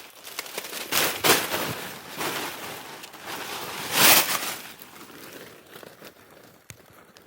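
Footsteps crunching through dry leaf litter on a forest trail, in irregular bursts, the loudest about four seconds in.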